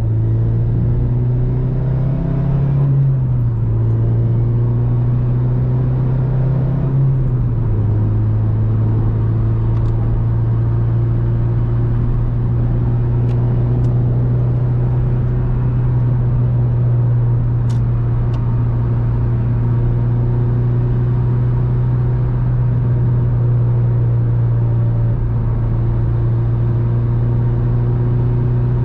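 Inside an Acura RSX at highway speed: the four-cylinder engine swapped in from a 2006 RSX Type S drones steadily at cruise over tyre and road noise. Its pitch steps down slightly twice in the first eight seconds, then holds steady.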